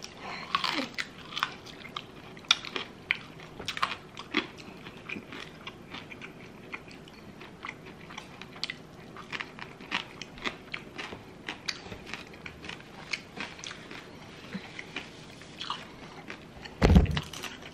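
Close-up chewing of crispy air-fried pork belly (lechon kawali), its crackling skin giving many irregular short crunches. A louder thump comes about a second before the end.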